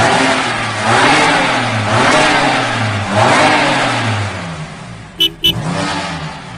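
Car engine revving sound that rises and falls again and again, about once a second. Two short, sharp blips come about five seconds in.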